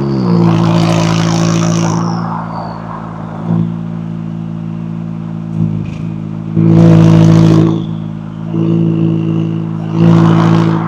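McLaren 570S twin-turbo V8 exhaust, its revs falling right at the start and then holding low and steady. Three short swells of throttle, each about a second long, come near the start, in the middle and near the end.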